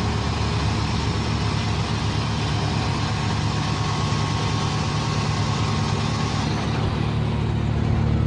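A heavy vehicle's engine running steadily with a low, even drone; the higher hiss over it drops away about six and a half seconds in.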